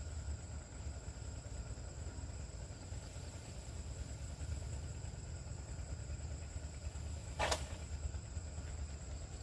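Steady outdoor background of a low rumble and insects droning at a constant high pitch, with one sharp knock about seven and a half seconds in.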